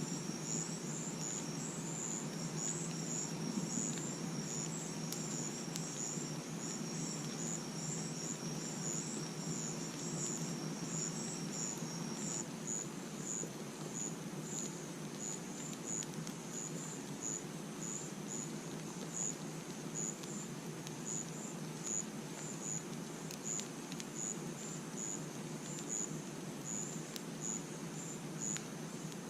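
Crickets chirping: regular high chirps about once a second, with a second, steadier high trill that stops about twelve seconds in. Under them, a steady low background noise and a few faint pops from the campfire.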